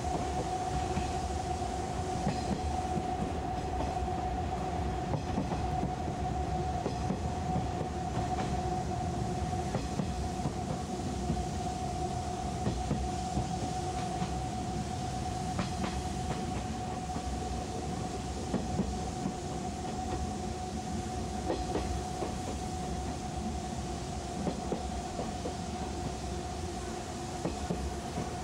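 185 series electric train running, heard from inside the passenger car: a steady rumbling hum with a constant mid-pitched tone and occasional faint rail-joint clicks.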